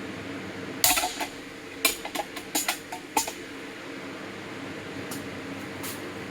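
Several sharp metal-on-metal clanks and knocks, the loudest about a second in, from the last of the camshaft bearings being driven out of a cast-iron engine block and the tools handled, over the steady hum of a shop fan.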